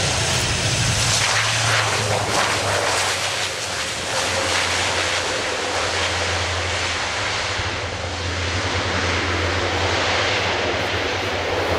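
Propeller aircraft engines running: a steady low propeller hum under a broad rushing engine noise.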